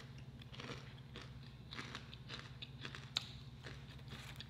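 A person chewing crispy fried chicken: soft crunching with scattered small crackles and one sharper click about three seconds in, over a faint steady low hum.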